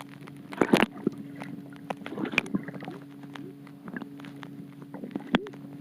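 Steady low hum with scattered light clicks and knocks, the loudest just under a second in.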